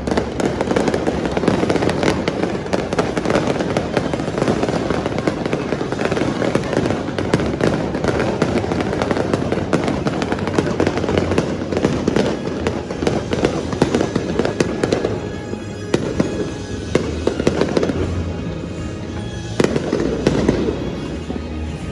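Fireworks going off in a rapid, continuous barrage of bangs and crackles, with music playing underneath; the bursts thin out briefly past the middle, then pick up again.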